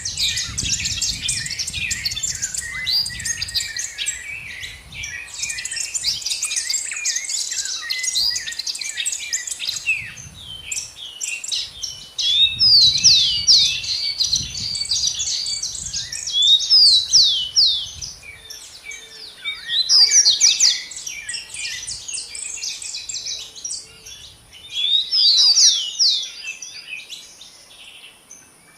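Several small birds chirping and singing together in a dense chorus of quick, high chirps and short falling notes, rising in louder clusters every few seconds, over a faint low rumble at times.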